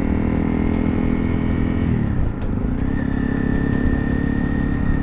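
Honda CRF300 Rally's single-cylinder engine running while riding at a steady pace; its note dips about two seconds in and climbs back up a second later, as when the throttle is eased and reopened or a gear is changed.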